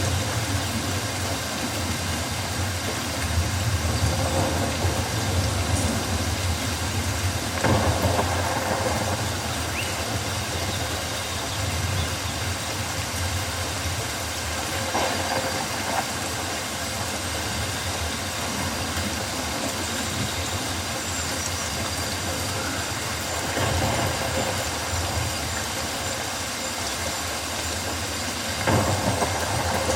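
Rainforest rain: a steady hiss of rain over a low rumble that swells up and dies back every few seconds.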